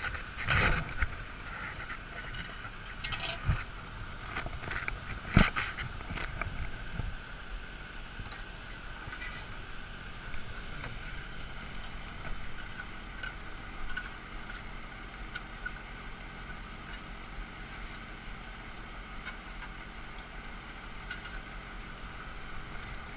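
A steady mechanical drone with a constant whine, with several sharp knocks in the first seven seconds.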